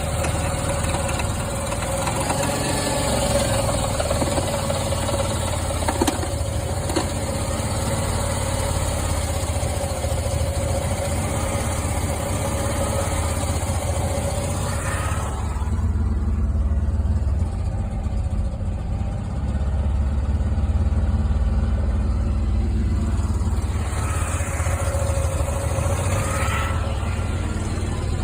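2002 Jeep Liberty engine idling steadily, with a tick that the owner suspects may be lifter tick.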